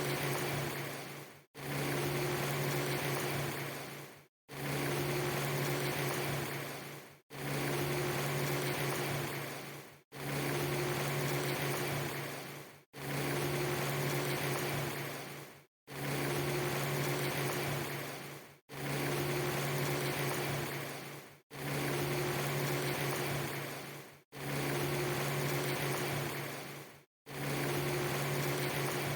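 A steady low hum over an even hiss, looped roughly every three seconds. Each repeat fades slightly toward its end and cuts to a split second of silence before the next starts.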